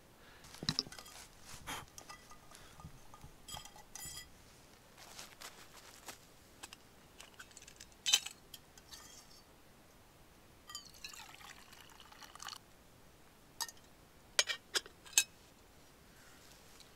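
Tea being poured and a metal camping cup and pot handled, with scattered light clinks and knocks. The sharpest clinks come about eight seconds in and in a quick group near the end.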